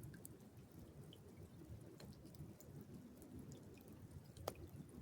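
Near silence: a faint low rumble with scattered soft ticks, and one sharp click about four and a half seconds in.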